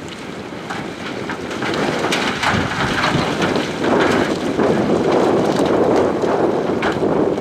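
Loose gravel and rock rumbling and clattering as heavy earthmoving machinery moves it, swelling louder about two seconds in, with scattered stone knocks.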